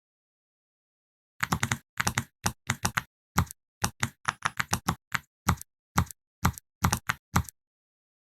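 A quick, uneven run of sharp knocks, about three a second, starting about a second and a half in, with dead silence between them.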